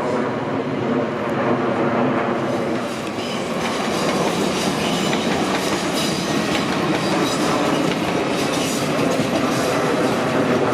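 Passenger train passing close by, a humming note at first giving way to a steady run of wheels clacking over rail joints.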